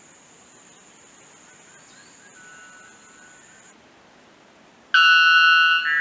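White bellbird's loud, ringing two-note song, starting suddenly about five seconds in: one note lasting about a second, then straight into a second note. Before it a steady high-pitched tone runs for the first few seconds and stops.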